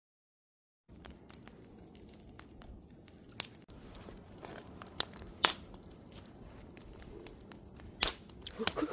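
Wood fire crackling: scattered sharp pops and snaps over a low hiss, starting about a second in after silence, with the pops coming thicker near the end.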